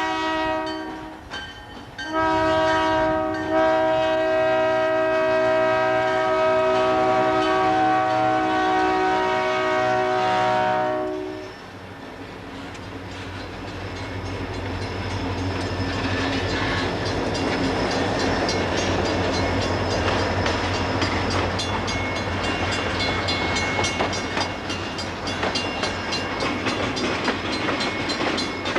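Canadian Pacific freight locomotive's multi-chime air horn sounding a chord: one blast ends about a second in, then a long blast runs until about two-fifths of the way through. After that the freight train rolls slowly past, a steady rumble with wheels clattering over the track, growing louder.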